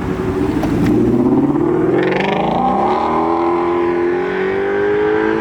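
Car engine accelerating hard, its pitch climbing steadily through one long pull.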